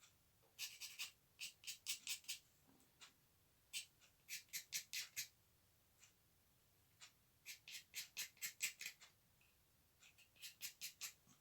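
Short scraping strokes in quick runs of several, with pauses between: a vacuum cleaner motor's stuck carbon brush being cleaned so that it slides freely in its holder again.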